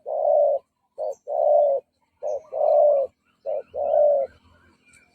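Spotted dove cooing in repeated phrases, each a short note followed by a longer, slightly falling coo, four times at about one phrase a second, stopping near the end. This is a decoy dove's call, used to lure wild doves in.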